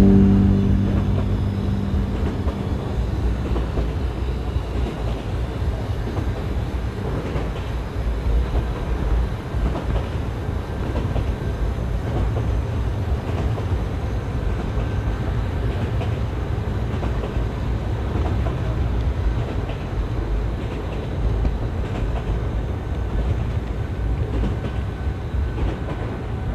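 Model train rolling along its track, heard from a camera riding on the train: a steady low running noise with faint clicks from the wheels and rails. A music track dies away in the first few seconds.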